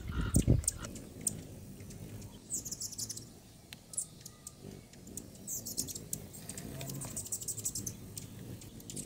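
Birds chirping: a few quick clusters of short, very high-pitched chirps, with a brief low thump at the very start.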